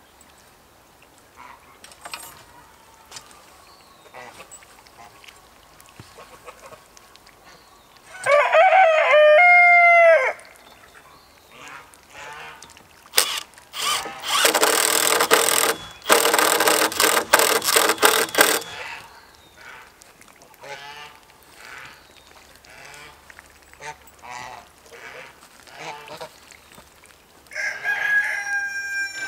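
Farm poultry calling: a loud, drawn-out call about eight seconds in and another near the end. In between, a power drill runs in a few stretches for about five seconds, driving screws into the hoop-house frame.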